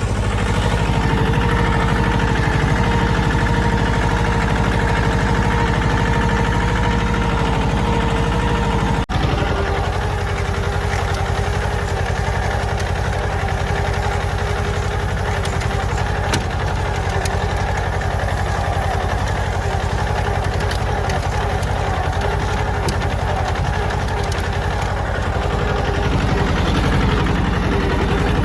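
Mahindra Jivo 305 DI tractor's diesel engine running steadily. About nine seconds in the sound breaks off for an instant, then the engine carries on at a slightly lower pitch.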